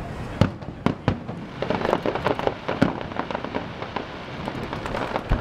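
Aerial fireworks shells bursting: a few sharp bangs in the first second or so, then a dense run of small rapid pops from about two to three seconds in, and another bang near the end.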